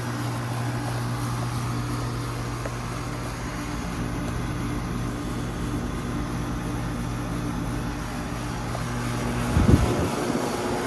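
Carrier 38CKW 2.5-ton central air conditioner condensing unit running steadily: the scroll compressor hums under the rush of the condenser fan. There is a brief thump about ten seconds in.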